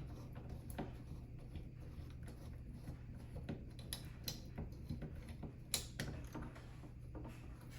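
Faint, scattered clicks and taps of a screwdriver and computer parts being handled while mounting screws are tightened, over a steady low hum.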